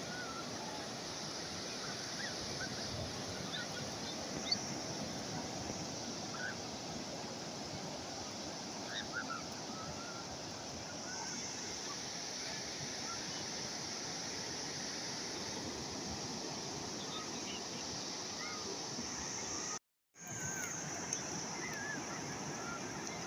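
Calm sea waves washing steadily, with a few short high chirps scattered over them. The sound cuts out completely for a split second about twenty seconds in.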